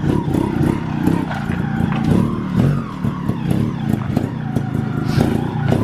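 Dirt bike engine revving up and down as it is ridden, with sharp clicks through the run.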